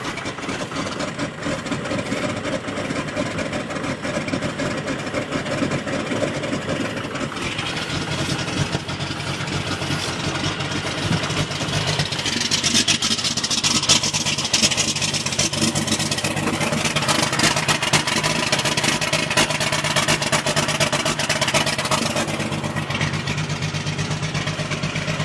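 Cold 12-valve Cummins 5.9 L inline-six diesel running rough just after a cold start at 17°F, not yet warmed up and not very happy. It gets somewhat louder about halfway through, then settles.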